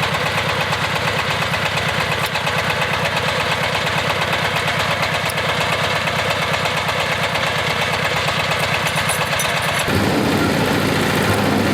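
Engine of a GY-200-1A engineering drilling rig running steadily with a regular low beat. About ten seconds in, the sound changes abruptly and grows fuller and slightly louder, as the rig takes on a different load.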